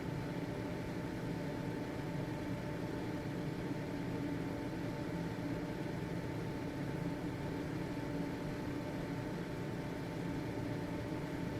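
Household ventilation fan motor running steadily: an even whirring hum with a faint steady whine.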